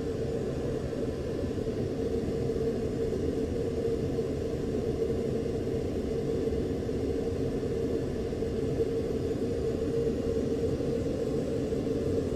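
Steady in-flight cockpit drone of a U-2 spy plane: engine and airflow noise with a constant low hum.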